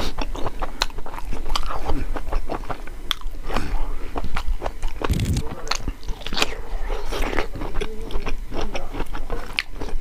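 Close-miked chewing of chicken gizzard curry and rice, with many short wet clicks and smacks of biting and chewing. There is a low thump about five seconds in.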